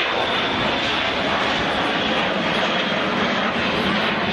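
Dassault Falcon 7X business jet's three turbofan engines in a steady, loud rushing noise as the aircraft flies its display, with a thin high whine that fades about a second in.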